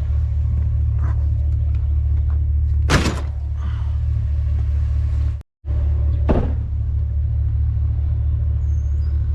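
Steady low rumble of an idling truck engine, with a sharp clunk about three seconds in and a duller knock about six seconds in.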